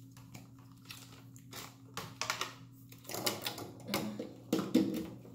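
Irregular clicks and knocks of a plastic hair dryer and its cord being handled while it is unwrapped and plugged in, busier and louder in the second half.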